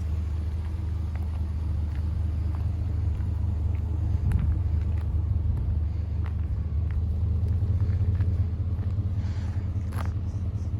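Pickup truck's engine idling steadily, a low even rumble, with a few faint clicks.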